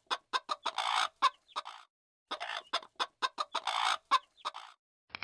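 Bird clucking: two runs of quick, short clucks with a brief silent pause between them.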